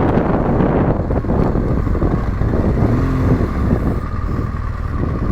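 Yamaha Ténéré 700 parallel-twin motorcycle engine running under way, with wind rush on the helmet microphone; the wind noise eases and the level drops after about four seconds as the bike slows.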